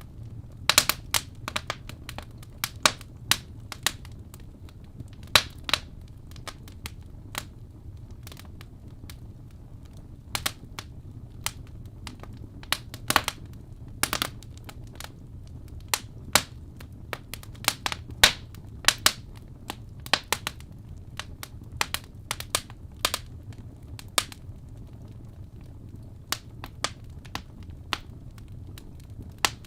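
Wood fire crackling and popping: sharp, irregular snaps from burning logs, a few each second, over a steady low rumble of the flames.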